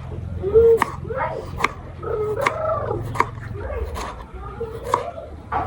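A dog whining and yipping in short cries that rise and fall, with a few sharp knocks in between.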